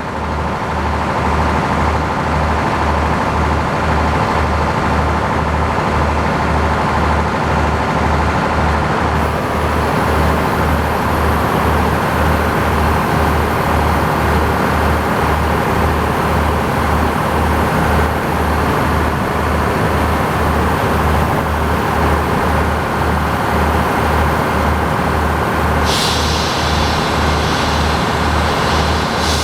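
Tractor engine running steadily, driving sawmill machinery, with an even low pulse about twice a second. A thin high whine joins about nine seconds in and stops a few seconds before the end.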